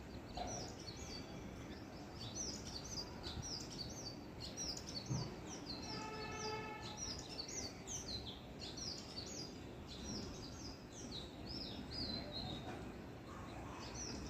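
Several small birds chirping continuously in quick, high, rapidly repeated notes over a steady low background noise. About six seconds in, a lower, held tone sounds for roughly a second.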